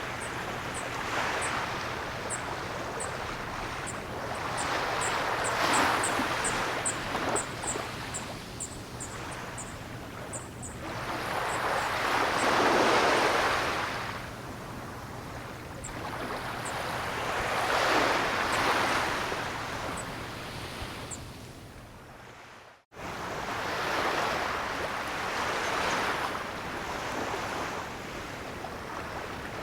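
Ocean surf: waves surge and break in slow swells about every six seconds, with a steady wash of water between them. Short high chirps repeat rapidly through the first third and then thin out. The sound drops out for an instant about three-quarters of the way through.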